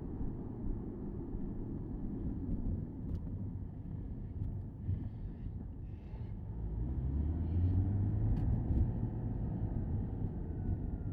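Porsche Boxster S 987.2's flat-six engine and road rumble heard from the open-top cabin while driving, the engine note rising and getting louder a little past halfway as it pulls harder.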